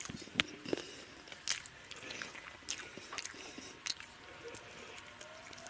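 A man chewing a mouthful of rice and spicy chicken curry eaten by hand: wet chewing and lip smacks, with scattered sharp clicks.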